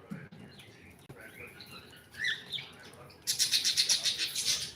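Pet parrot chirping: a few faint, soft chirps at first, then, about two-thirds of the way in, a fast, loud run of sharp chirps, roughly eight a second.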